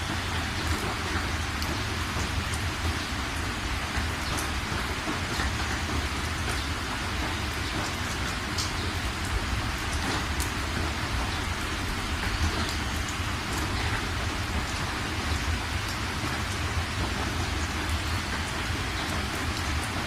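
Steady rain falling, a continuous hiss with scattered drop ticks, over a constant low rumble.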